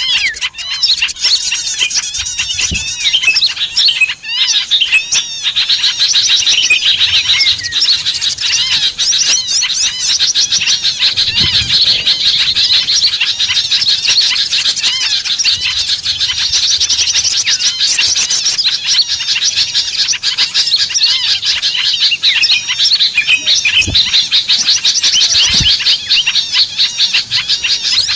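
Dense, unbroken chorus of many small songbirds chirping and twittering in rapid, overlapping calls: a bird-lure (pikat) recording meant to draw small birds in. A couple of brief low thumps come near the end.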